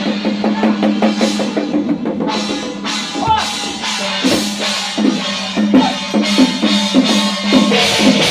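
Drum-led percussion music: repeated drum strokes, about three a second in the second half, over a steady held note.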